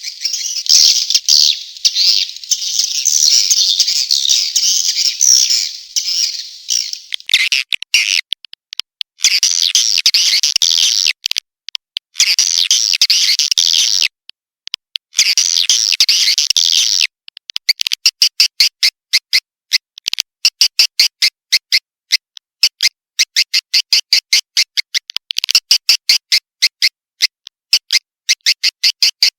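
Swiftlet lure-call recording: dense, high-pitched twittering chirps of swiftlets. It is continuous at first, then breaks off abruptly several times, and in the second half turns into a fast, rhythmic run of short chirps.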